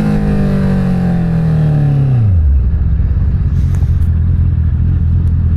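Inline-four motorcycle engine slowing, its revs falling steadily on a closed throttle. About two seconds in the revs drop sharply, and the engine settles to a steady low running note, with wind rush underneath.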